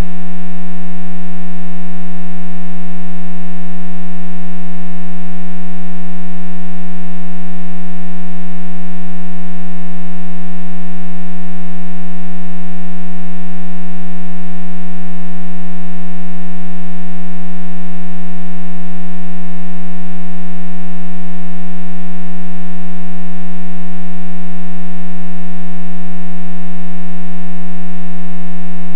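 Loud, perfectly steady electrical hum on the audio feed: one unchanging low buzz with a stack of overtones, the kind of interference hum picked up by a recording line.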